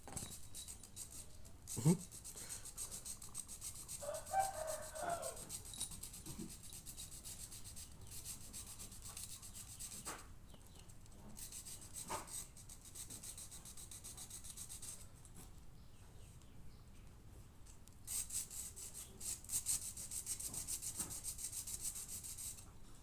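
Scratchy rubbing and scraping noises that come and go in stretches, with a short pitched cry about four seconds in and a few light knocks.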